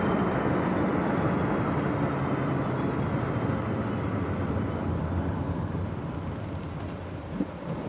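2002 VW GTI VR6 slowing toward a stop, its road noise and a front-end whine fading as the speed drops. The whine follows road speed alone and does not change with the car out of gear or the clutch in. A short knock comes near the end.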